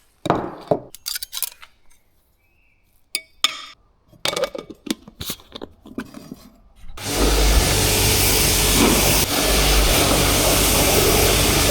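Metal tools and parts clinking and knocking, then a power tool running steadily for about five seconds before cutting off abruptly.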